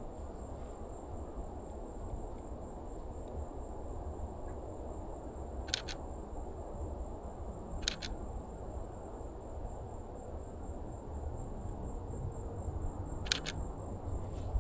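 Canon EOS RP shutter firing: single sharp clicks about six and eight seconds in, then a quick pair near the end.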